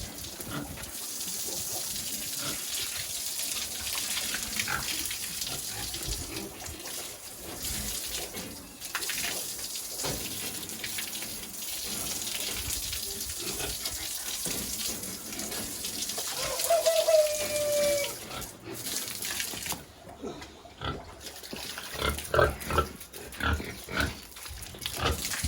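Pigs on a farm calling and grunting over a steady hiss, with one short pitched call a little past halfway and a quick run of short grunts near the end.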